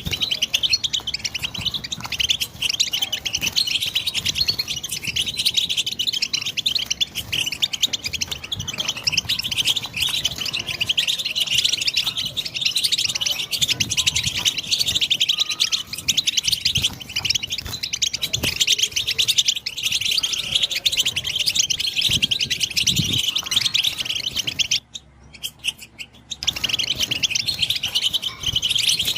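European goldfinch singing: a fast, unbroken run of twittering, chirping notes, with a pause of about a second and a half near the end.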